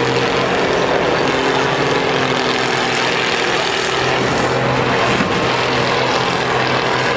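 Diesel engines of combine harvesters in a demolition derby running hard together, a loud, steady engine drone.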